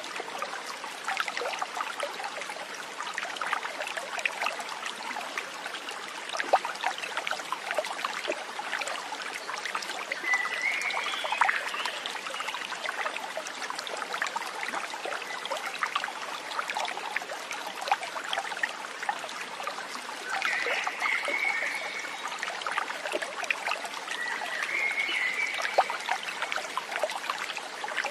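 Stream water trickling steadily with many small splashes. Three brief high calls come through it: one about ten seconds in, and two more in the latter half.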